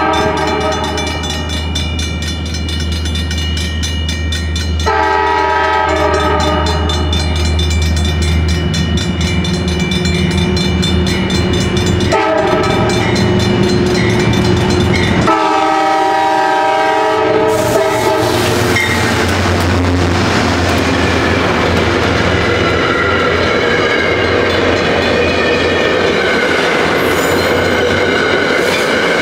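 A diesel passenger locomotive's air horn sounds a series of blasts for the grade crossing as the train approaches; the last blast stops about 17 seconds in. The passenger coaches then rush past close by with a steady rumble and wheel clatter on the rails.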